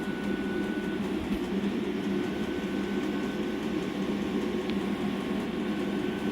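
Chinese diesel air heater running steadily: an even rush from its combustion and air blowers with a thin, steady high-pitched fan whine. It is burning a mix of leftover diesel and 50:1 petrol-oil mixture.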